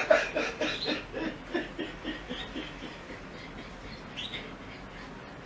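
Soft, stuttering chuckling laughter in a quick run of short bursts that fades out about three seconds in. A faint brief high squeak follows about a second later.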